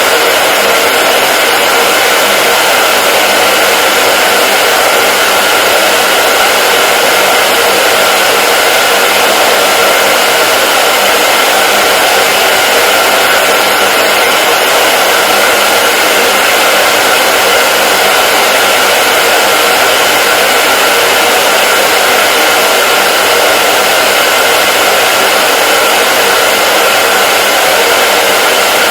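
Hair dryer running continuously: a loud, steady hiss of blown air with a faint steady whine from the motor and fan, unchanging in level.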